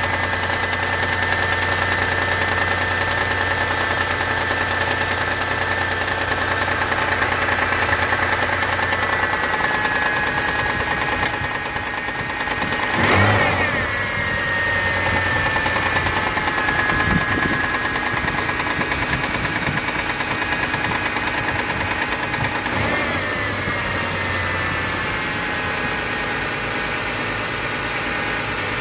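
Mitsubishi 6G72 3.0 V6 idling cold with a knocking from the engine, the cold-start knock that the owner suspects comes from the hydraulic lifters. About halfway through, the sound briefly gets louder.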